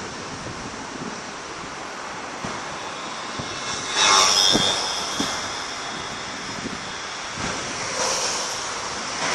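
Fireworks display: a steady rushing noise with a few dull booms, and a louder hissing burst about four seconds in.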